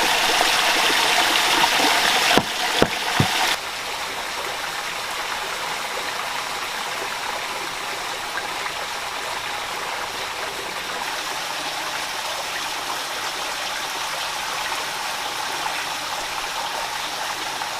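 Water rushing steadily in a stream. It is louder at first, with a few sharp knocks, then drops to a steadier, quieter rush about three and a half seconds in.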